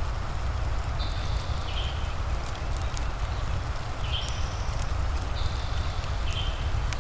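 Fireplace crackling, with scattered sharp pops, over the steady hiss of gentle rain and a low rumble. Short high chirps recur every second or so.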